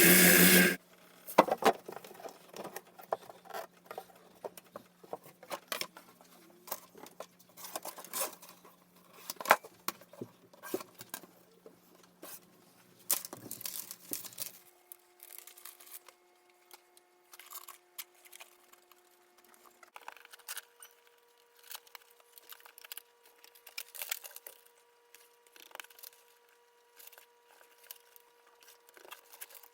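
A loud mechanical noise cuts off abruptly about a second in. After it come hand-work sounds at a workbench: scattered sharp clicks, taps and light rustling of materials, over a faint steady hum.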